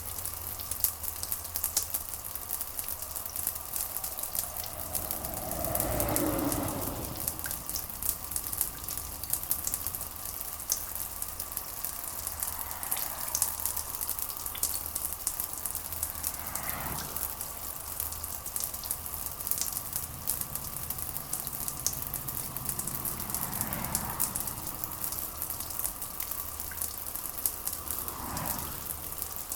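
Steady rain: a dense, crackling patter of drops, with a soft swell in the sound every several seconds and a low steady hum beneath.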